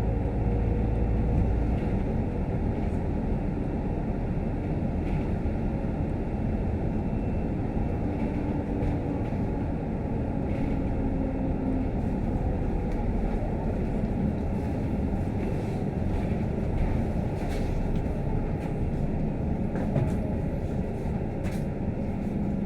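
Scania K310UD double-decker bus heard from inside while riding: a steady low engine and road rumble with a faint droning tone that comes and goes, and scattered light clicks and rattles. A deeper low rumble eases off about two seconds in.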